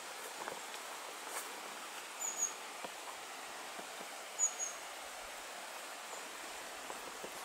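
Two short, high bird chirps about two seconds apart over a steady outdoor hiss, with a few faint soft steps.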